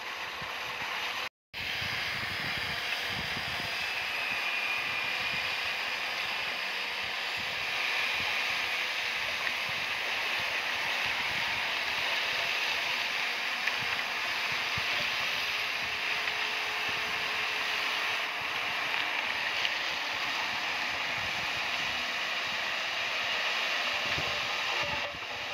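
Komatsu bulldozer working: its engine and running gear make a steady mechanical clatter. The sound cuts out for an instant about a second in.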